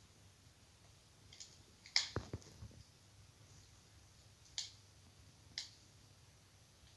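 Wood fire in a fireplace crackling: a few sharp, irregular pops over a faint steady background, the loudest cluster of pops about two seconds in, then two single pops later.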